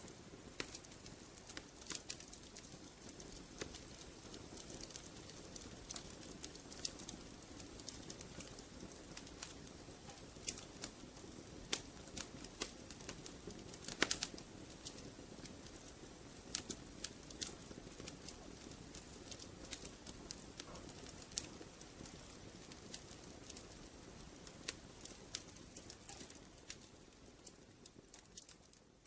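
Wood fire crackling: irregular sharp pops and snaps over a low, steady rumble, one louder pop about halfway through, fading away near the end.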